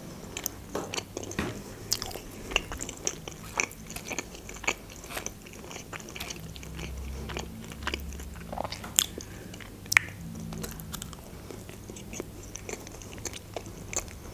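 A person chewing a soft baked pastry with her mouth: wet mouth clicks and smacks at irregular intervals, some sharper than others.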